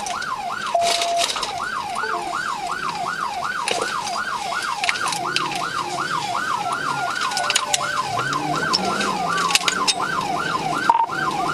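Police car siren in yelp mode, its pitch sweeping rapidly up and down about three times a second.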